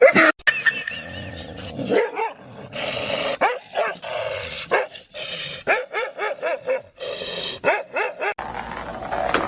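A dog barking and yipping in a quick run of short, pitched calls.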